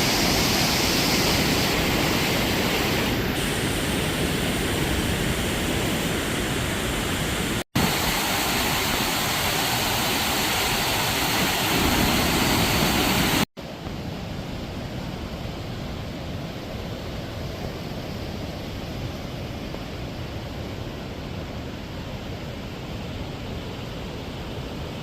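Waterfall, a steady rush of falling water. It cuts out for an instant about a third of the way in and again about halfway through, and after the second break it is quieter and duller.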